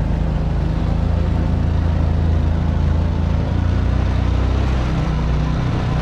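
Motorbike engine running at a steady speed while riding, a constant low hum with a hiss over it.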